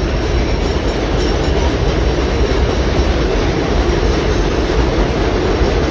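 A train running past close by: a loud, steady rumble of wheels on the rails.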